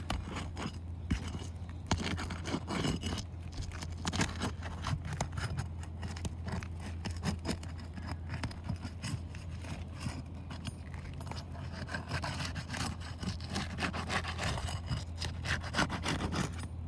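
Asphalt roof shingles being worked loose by hand tools: an irregular, continuous run of scrapes, rubs and short knocks.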